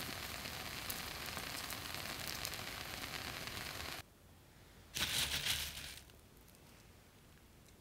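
Rice-paper pizza topped with egg frying in a pan on low heat: a steady sizzle with small crackles that cuts off about four seconds in. About a second later comes a brief, loud, dry rustle and crunch, like crisp food or paper being handled, then near quiet.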